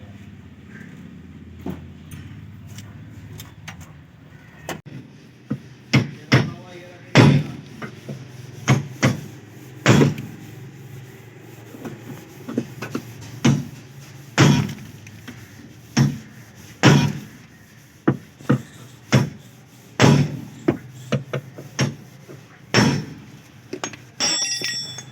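Repeated hard knocks on a Maruti 800's car door, about fifteen of them roughly a second apart, as the door is worked on so that it closes properly. A short ringing clink near the end.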